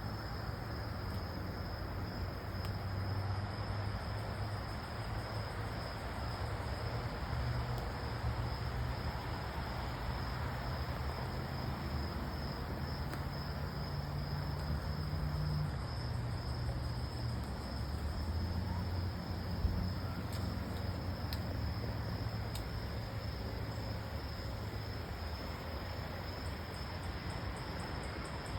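Crickets trilling steadily in one high, unbroken tone, over a low background rumble.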